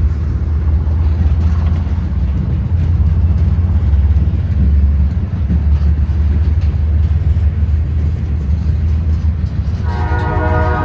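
Diesel locomotive running with a steady, deep rumble. Near the end its air horn starts blowing a chord of several notes.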